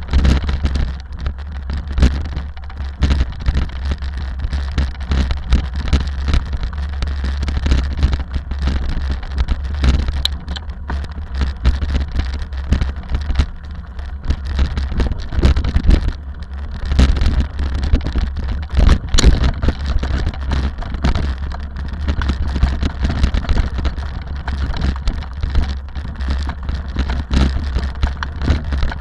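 Rally car driving, a steady low engine drone with many sharp knocks and rattles throughout.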